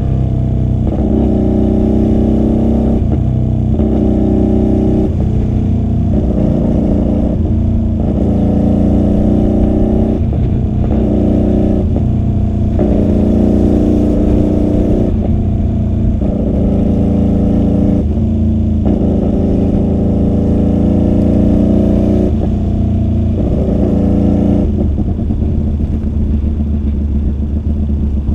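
QJMotor SRV250 V-twin motorcycle with a custom 2-into-1 exhaust, running on the road. The engine note repeatedly rises and breaks off, as under throttle and gear changes, and settles to a steadier, lower note near the end.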